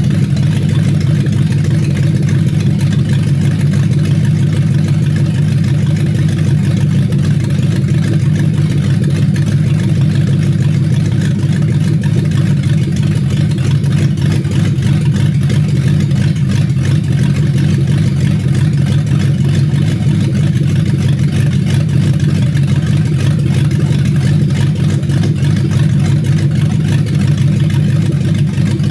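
Toyota 1UZ-FE 4.0-litre V8 engine idling steadily, with no revving.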